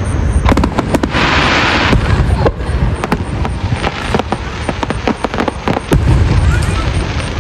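Fireworks going off in quick succession: many sharp cracks and pops over deep booms, with a burst of crackling hiss about a second in.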